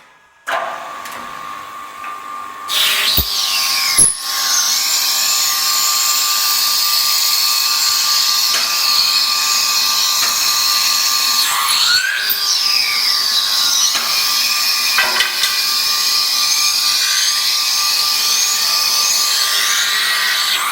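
Woodworking machine shaping wooden broom handles, running with a steady whine and a high cutting hiss. It gets louder about three seconds in, with a couple of sharp knocks around three and four seconds in.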